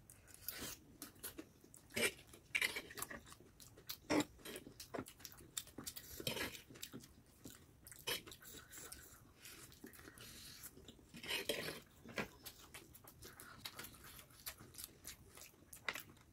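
Close-up eating sounds: chewing and biting into fried chicken lollipop and spicy chowmein noodles, with irregular sharp mouth clicks and smacks and a few longer wet slurps.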